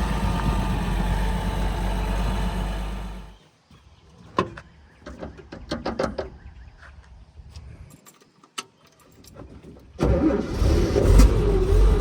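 A 1970 Toyota Land Cruiser's engine running steadily, then shut off about three seconds in. A few seconds of scattered clicks and knocks follow, and then the engine is started again and runs loudly near the end.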